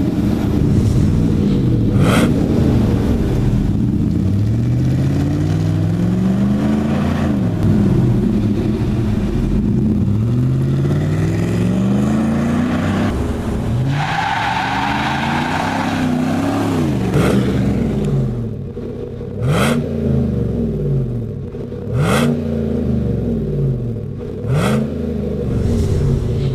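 Chevy Silverado 1500 pickup engine revving again and again through a Gibson Dual Sport aluminized cat-back exhaust with twin slash-cut tips. Slower rises and falls come every two to three seconds at first; in the last third they give way to short, sharp throttle blips about every two and a half seconds.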